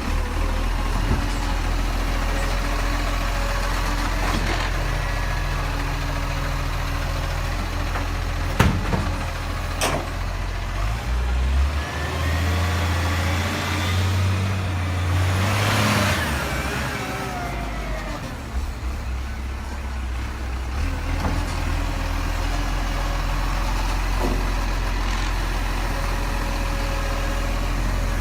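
Garbage truck engine running steadily, with a louder pass about halfway through whose pitch falls as it goes, and a few sharp knocks.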